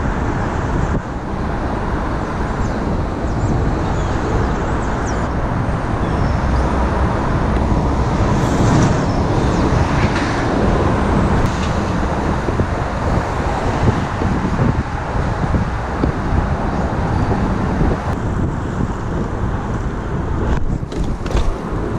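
Steady, loud city street traffic noise heard while riding a BMX bike through the street, with no single event standing out.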